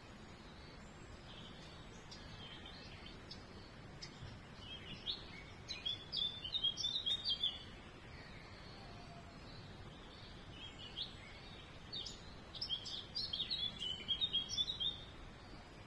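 Small songbird twittering in two bouts of quick, chattering notes, the first starting about a second and a half in and the second about eleven seconds in, over steady background hiss.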